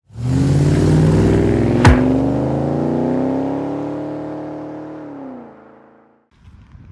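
Car engine revving, its pitch rising slowly, then holding and dropping away as it fades, with one sharp click about two seconds in; the sound cuts off suddenly near the end.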